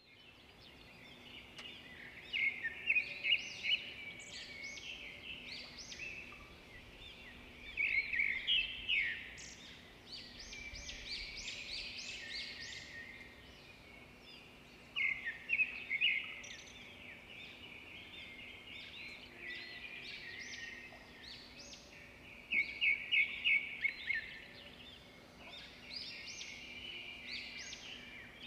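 Small birds chirping and twittering continuously, with several loud bursts of rapid chirps every six or seven seconds.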